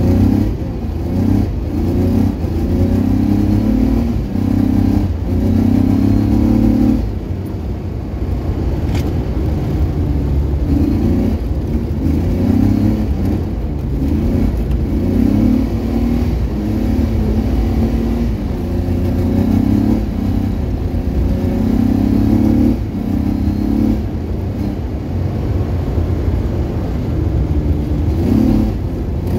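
Car engine heard from inside the cabin, driven hard: it revs up again and again, rising in pitch and breaking off at each shift, over a steady low rumble.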